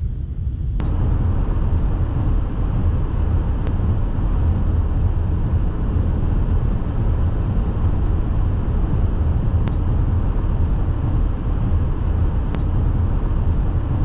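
Steady vehicle road noise with a deep rumble, rising sharply about a second in, with a few faint isolated ticks.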